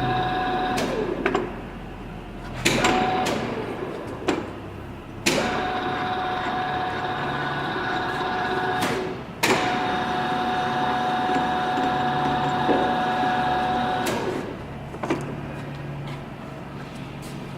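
Rapid traverse motor on a Summit 36-inch engine lathe, switched on and off several times: each run starts with a clunk and holds a steady whine, which slides down in pitch as the motor stops. The rapid traverse is working again after having failed.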